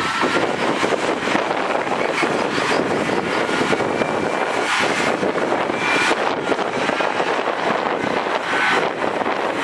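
Heavy earthmoving machinery running steadily, a continuous dense engine noise with a few brief high-pitched squeaks scattered through it.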